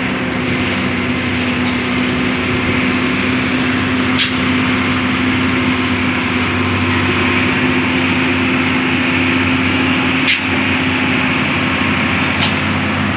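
Hino truck's diesel engine running steadily at road speed under a constant hum of road noise, with two short sharp clicks about four and ten seconds in.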